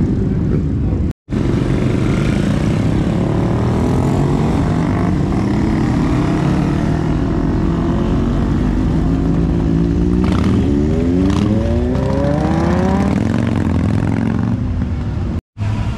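Car engine running close by, then accelerating with its pitch rising over a few seconds near the end. The sound cuts out completely for a moment twice.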